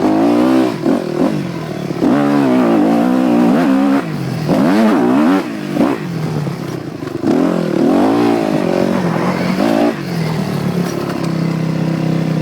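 Dirt bike engine revving up and down over and over, its pitch rising and falling every second or two as the throttle is opened and closed.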